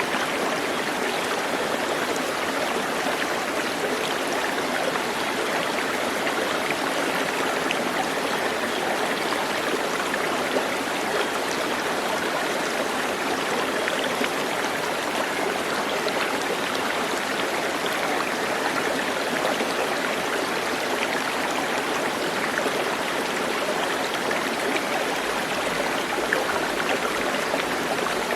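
Steady rush of running water, like a stream, even and unbroken throughout.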